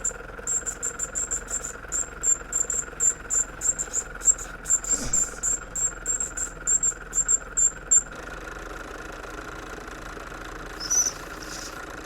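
Crickets chirping rapidly in high, repeated pulses, which stop about two-thirds of the way in. A few lower, arching chirps start near the end, over a steady faint hum.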